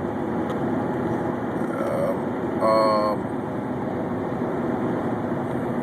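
Cabin noise of a 1998 Honda Accord four-cylinder driving down the road: steady engine and road noise from a car running with a severe misfire. A brief humming tone, the loudest moment, comes about three seconds in.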